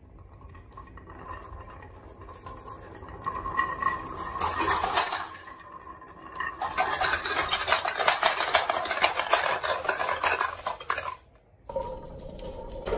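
Marbles rolling and clattering down a marble run: a rattle that builds for a couple of seconds, a short pause, then a long run of fast clicking that stops suddenly, with another clatter starting near the end.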